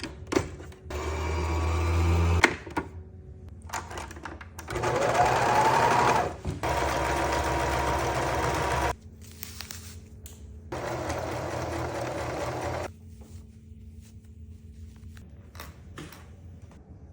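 Electric sewing machine stitching in four short runs, starting and stopping; in the second run the motor speeds up with a rising whine. Short clicks come between the runs.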